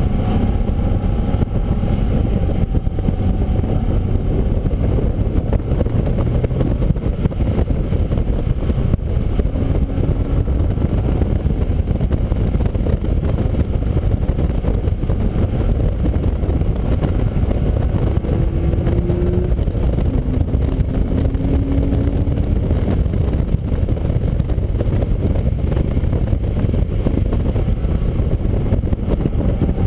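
Car being driven at speed on a wet race track: engine running under a steady dense rush of wind, tyre and water-spray noise, with a couple of short rising engine notes in the middle.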